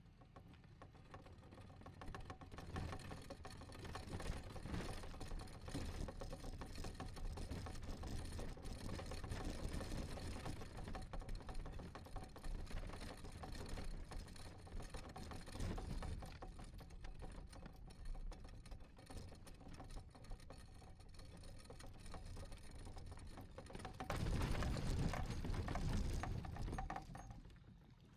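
Kayak on the water: irregular splashing and hull noise, louder for a few seconds near the end.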